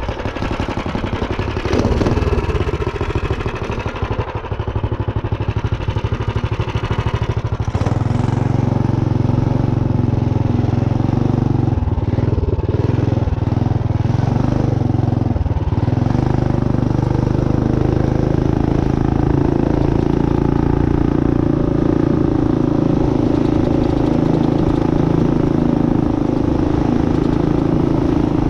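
Minibike's hot-rodded Tillotson 212 single-cylinder four-stroke engine running under way, with racing camshaft and billet rod. Its pitch changes and climbs through the first eight seconds or so, then holds steady at cruising speed.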